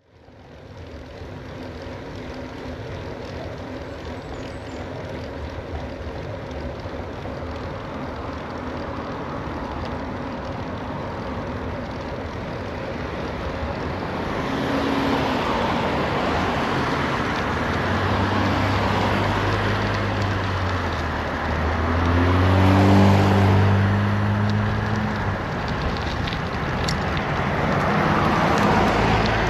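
Wind rushing over the microphone of a bicycle coasting downhill, growing louder as it picks up speed. About two thirds of the way through, a low engine hum from a motor vehicle comes in, swells and fades.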